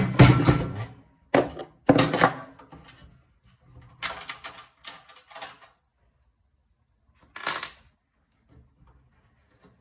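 Empty metal computer case being handled and set aside: a run of knocks and rattles in the first half, then one more knock about three-quarters of the way through.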